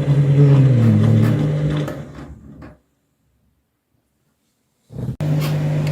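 Washing machine motor humming, its pitch dipping and rising in the first second or so before fading out; about two seconds of dead silence follow, then the hum cuts back in abruptly.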